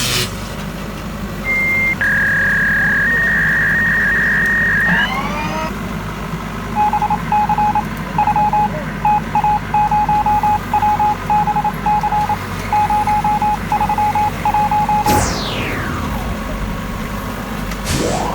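An engine runs steadily underneath, with electronic sounds over it. A held high beep lasts a few seconds, then a long run of short beeps comes in an uneven rhythm. Near the end a whooshing sweep falls sharply in pitch.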